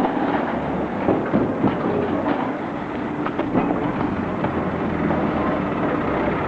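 A heavy vehicle or machine running steadily, with many loose knocks and rattles over the rumble.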